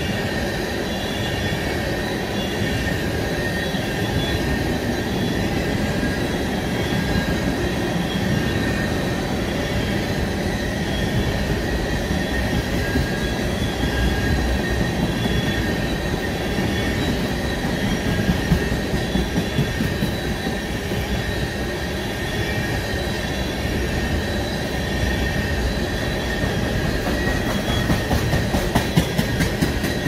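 Freight train tank cars rolling past with a continuous rumble of steel wheels on rail and a thin, steady wheel squeal. Rhythmic clacking of wheels over rail joints comes about halfway through and again near the end.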